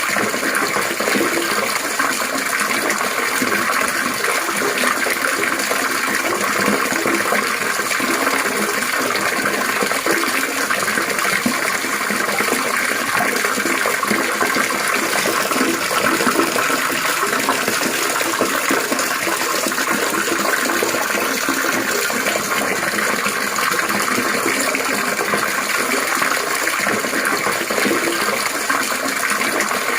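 Running water trickling and splashing steadily, a continuous babbling-water sound.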